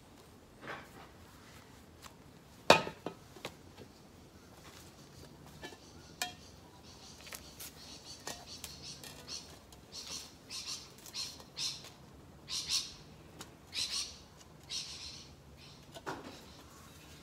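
Birds calling in a run of short, shrill squawks and chirps that grow louder in the second half. A single sharp click sounds about three seconds in.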